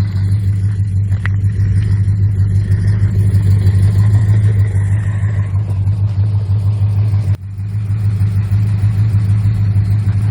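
1969 Plymouth GTX's 440 V8 engine running with a steady deep rumble, the sound briefly dropping out about seven seconds in.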